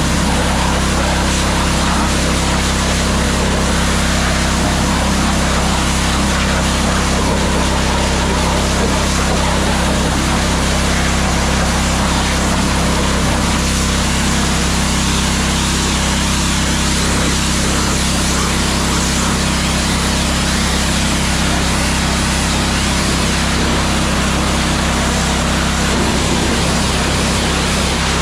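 Hot-water pressure washer running steadily at full pressure: a constant engine-and-pump drone under an even hiss of water spray.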